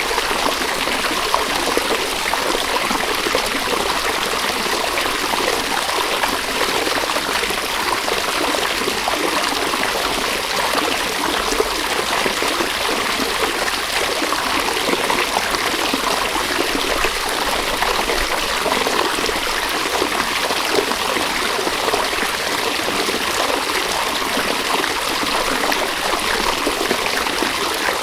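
River water flowing in a steady, unbroken rush and babble.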